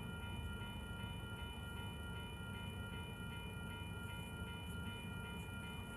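Low rumble of a freight grain train, with a grade-crossing warning bell ringing steadily, a little over twice a second.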